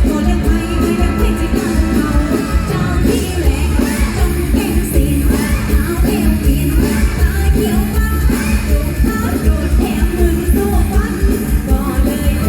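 Live mor lam band music with singing over a steady, heavy beat.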